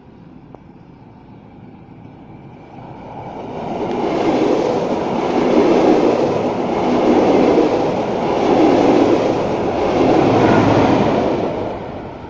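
DB Class 218 diesel-hydraulic locomotive departing and passing with its train. The engine and train noise grows from about three seconds in, stays loud with several surges, then fades near the end.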